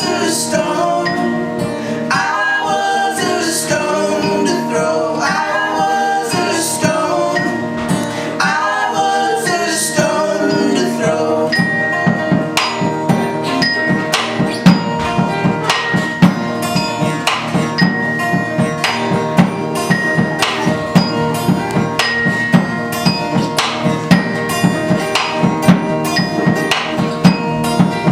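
Live band playing a song: a voice sings over the instruments for about the first ten seconds, then the song goes on without singing, driven by a steady beat of sharp percussive hits about twice a second, with repeated high ringing notes.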